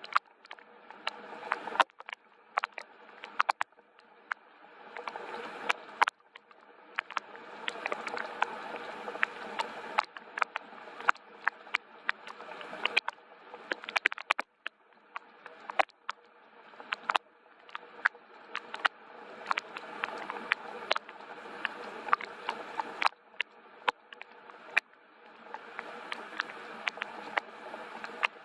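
Gentle rain with many separate drops tapping sharply, over a soft hiss of rainfall that swells and eases in slow waves every several seconds.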